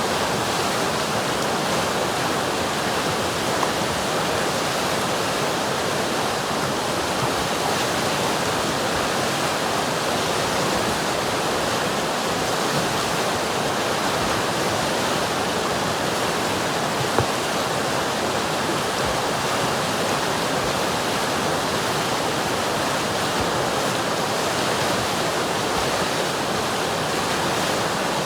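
River water rushing steadily, a constant full hiss with one brief click about two thirds of the way through.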